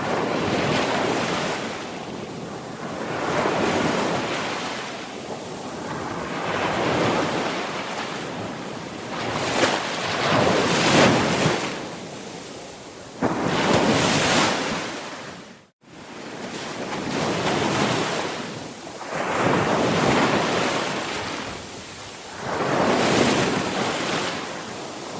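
Sea waves breaking and washing on the shore, a hissing surge that swells and fades every few seconds. About two-thirds of the way through, the sound cuts out to silence for a split second, then comes back.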